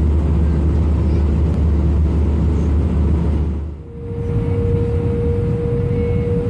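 Airbus A319 engine and airflow noise heard inside the cabin: a steady low rumble. About four seconds in it changes, after a brief dip, to a rumble with a steady whining tone over it.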